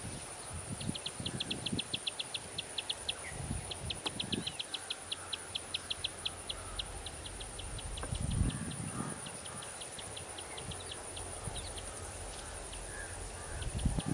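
Outdoor ambience: a steady high insect trill under a bird's rapid series of short, high ticking notes, about six a second, repeated in several runs with brief pauses. Occasional low rumbles of wind on the microphone.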